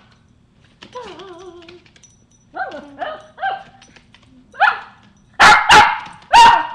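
A dog whines briefly with a wavering pitch, then barks in a run of short barks that grow louder, ending in loud barks in quick succession. It is excitedly begging for a treat held out in front of it.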